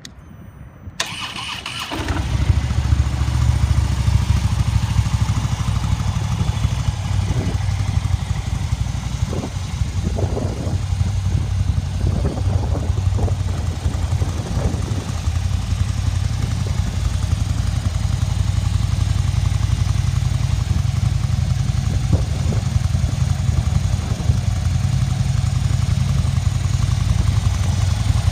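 2016 Harley-Davidson Street Bob's 1690cc (103 cubic inch) V-twin being started: a brief starter whirr, the engine catching about two seconds in, then idling steadily.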